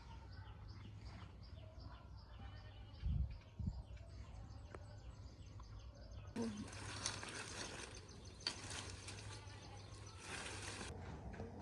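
Dry rustling and crackling, dense and uneven, starting abruptly about six seconds in and stopping just as abruptly about four and a half seconds later. Two dull thumps come about three seconds in, and faint bird chirps sound throughout.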